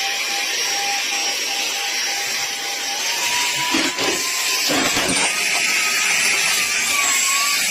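Portable handheld cordless mini vacuum running on a suction test: a steady rush of air under a thin high motor whine that steps up slightly in pitch about three seconds in.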